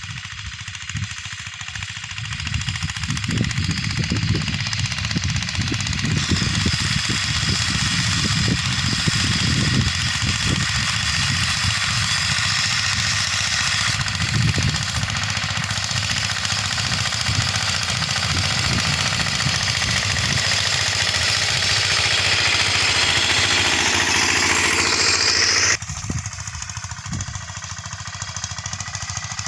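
Mini tractor sprayer running, its engine giving a fast, even knocking beat, with a loud hiss of spray over it that stops suddenly near the end while the engine keeps running.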